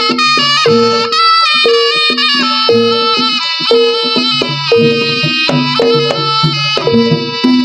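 Javanese jaranan music over a sound system: a reedy wind instrument holds a sustained, wavering melody over a repeating pattern of low struck notes about once a second.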